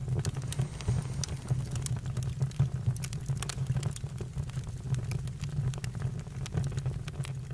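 Campfire crackling: irregular pops and snaps of burning wood over a steady low rumble.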